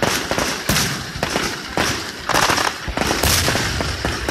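Fireworks going off in a rapid barrage: many overlapping bangs and crackles, with louder bursts about once a second.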